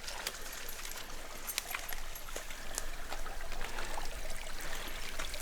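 Shallow water trickling steadily, with scattered small splashes and ticks.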